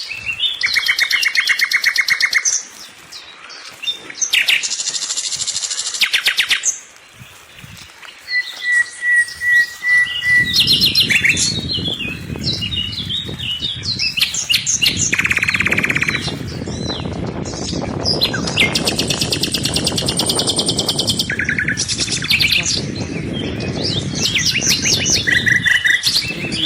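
Several small birds chirping and singing, with rapid trills and runs of quick repeated notes. From about ten seconds in, a low rushing noise runs underneath.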